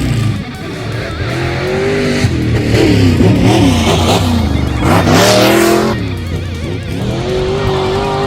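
Tough-truck engines revving hard, their pitch rising and falling, over background rock music with guitar.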